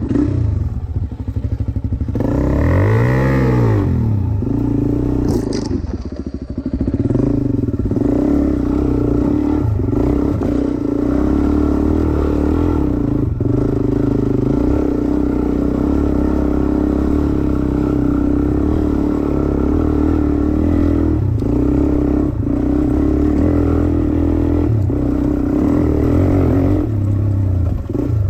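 Dirt bike engine revving up and dropping back about two to four seconds in, then running at a steady, held speed for most of the rest, with a few short knocks and clatters over it.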